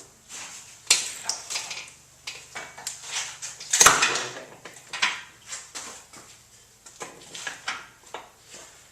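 Metal clinking and clanking of tools and parts being handled, a string of irregular knocks with the loudest about four seconds in.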